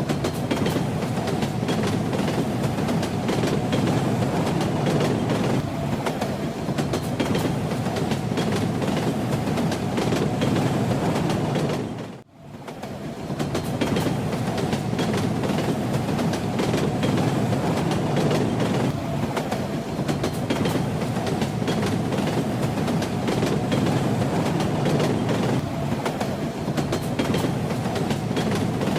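Train wheels clattering over rail joints under a steady rumble, the clickety-clack of a moving train. About twelve seconds in the sound fades out briefly and comes back.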